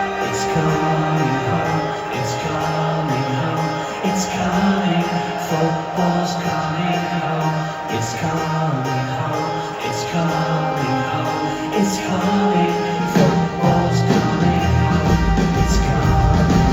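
Live rock band playing a mostly instrumental passage over the arena PA, with guitar, a moving bass line and drums. The bass and drums come in heavier near the end.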